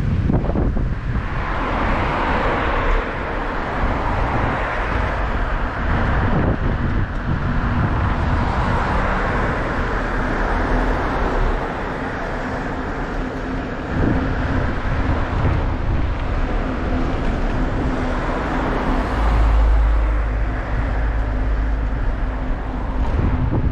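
Wind and road noise on the microphone while riding a bicycle on a road, with vehicles swelling past now and then. A heavy low wind rumble comes near the end.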